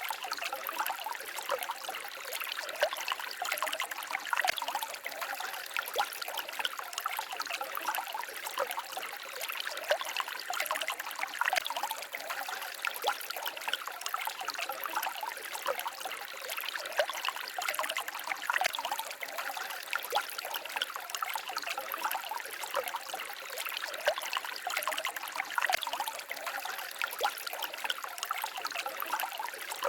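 A small forest stream babbling and trickling over stones, a continuous bright splashing with no deep rumble.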